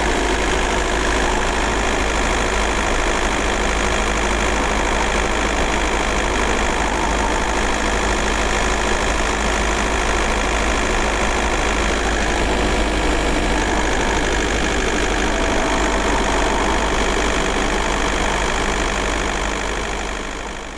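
Volkswagen 1.9 TDI (AJM) four-cylinder turbodiesel running steadily with a diesel clatter, the sound fading out near the end.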